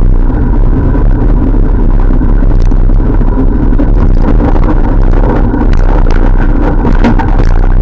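Loud, steady rumble of wind buffeting the microphone of a camera on a moving bicycle, mixed with road noise, with a few faint ticks.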